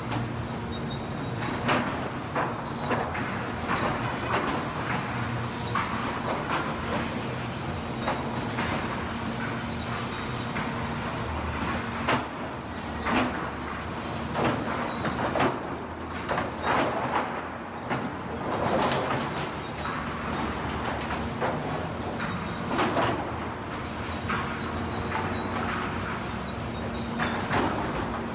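Sawmill planer feed system running: a steady machine hum with a constant low tone, broken by irregular knocks and clatters.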